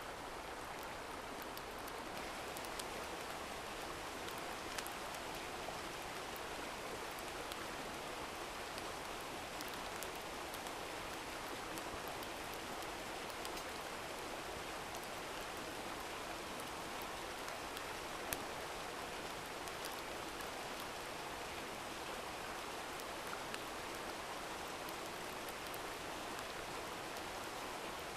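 Steady rushing-water hiss, with a few sharp ticks scattered through it.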